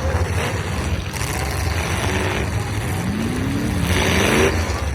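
Derby trucks' engines running under a steady low rumble, with one engine revving up and rising in pitch about three to four and a half seconds in.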